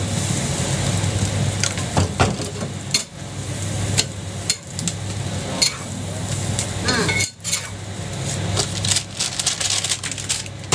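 Jianbing being cooked on a griddle: a metal spatula scraping and clicking on the hot plate, with a sizzle and a steady low hum underneath. A short wavering tone sounds about seven seconds in.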